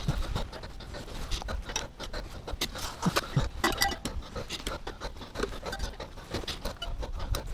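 Irregular scraping, rubbing and clicking of hand work on metal parts, with sharp clicks scattered through.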